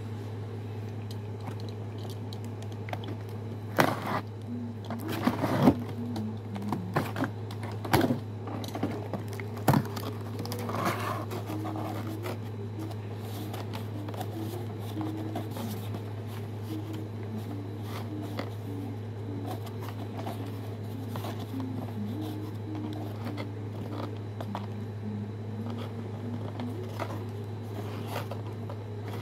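Steady low electrical hum, with a handful of sharp clicks and knocks about four to ten seconds in.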